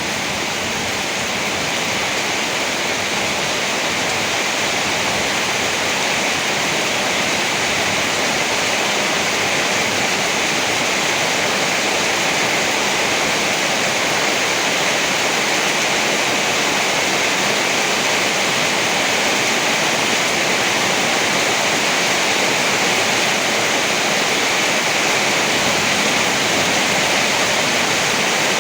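Heavy rain falling steadily: a dense, even hiss with no thunder or other distinct events.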